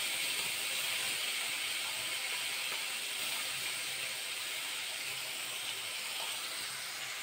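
Wet ground spice paste sizzling in hot mustard oil in a kadai, frying with cumin seeds and dried red chillies: a steady hiss that eases slightly as it goes on.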